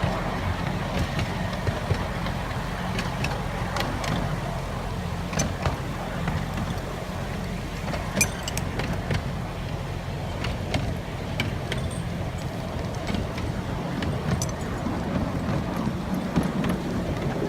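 Miniature railway train running along the track, a steady low rumble with scattered sharp clicks and knocks.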